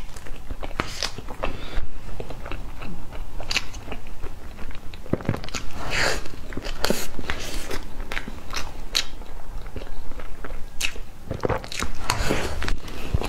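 Close-miked wet chewing and mouth sounds of a person eating soft cream cake with mango pieces, with irregular small smacks and clicks throughout.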